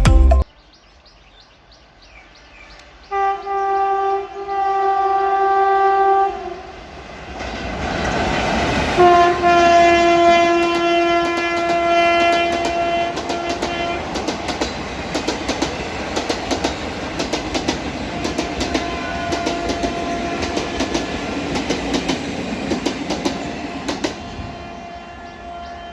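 Indian Railways train horn sounding two long blasts as a high-speed train approaches. The train then passes at speed, its wheels clattering rapidly over the rail joints for about ten seconds, and the horn sounds faintly again near the end.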